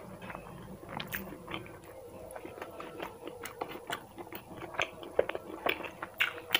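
Close-miked mouth sounds of a person chewing food, with irregular wet smacks and clicks and a sharper smack about six seconds in.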